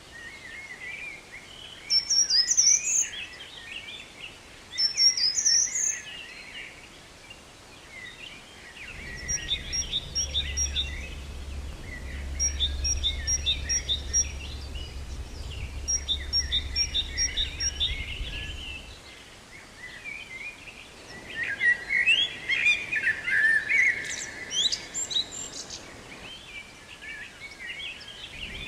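Several birds singing and calling, a busy mix of chirps and trills, with two loud high chirps in the first few seconds. A steady low hum runs underneath through the middle stretch.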